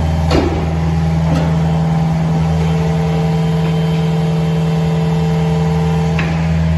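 2016 John Deere 50G mini excavator's diesel engine running steadily, with a couple of short knocks in the first second and a half and another near the end.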